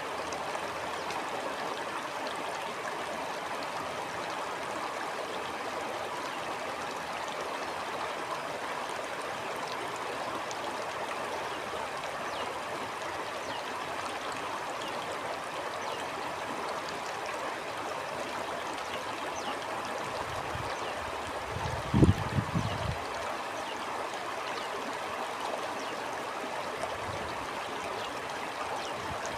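A stream flowing steadily, a continuous rushing and gurgling of water. About three quarters of the way through, a brief cluster of low thumps stands out above it.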